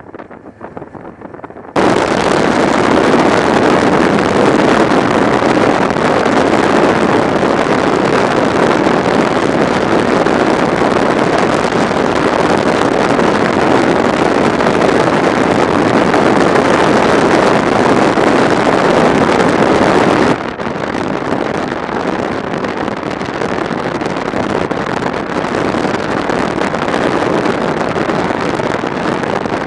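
Motorcycle at speed heard from the bike: a loud, even rush of wind over the microphone with road noise. It starts abruptly about two seconds in and drops suddenly to a softer, duller rush about two-thirds of the way through.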